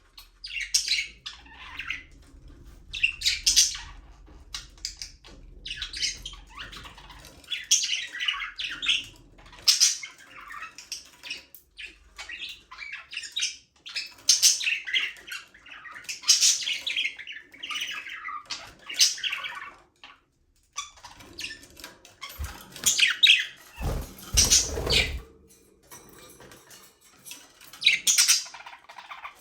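A flock of budgerigars chirping and chattering in irregular bursts of short, high calls, with brief pauses between them. Around two-thirds of the way in, a burst of louder calls comes with low thumps.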